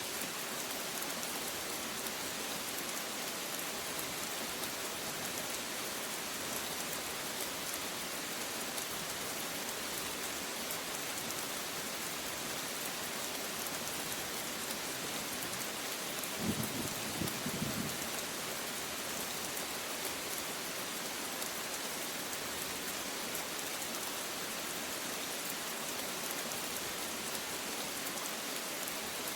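Steady, dense rainfall pattering on a surface. A brief low rumble of thunder about two-thirds of the way through.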